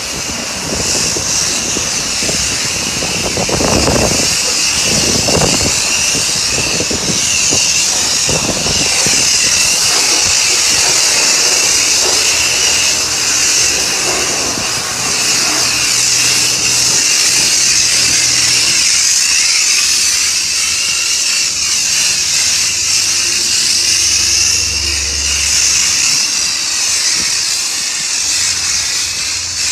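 High-pressure wand at a self-service car wash spraying onto a car, a loud, steady hiss, with low rumbling thumps in the first third.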